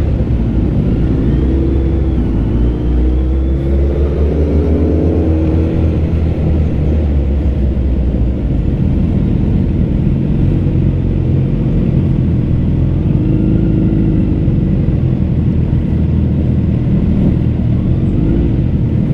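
Motorcycle engines running at low speed, a steady deep drone with the revs rising and falling a few times.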